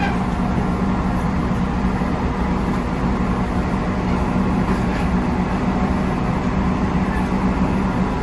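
JR Central 311 series electric multiple unit running at a steady speed: an even rumble of wheels on rail with a constant low hum from the running gear.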